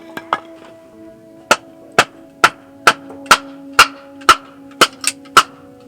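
A run of sharp, hard strikes, about two a second, with a pause of about a second near the start, over quiet acoustic guitar music.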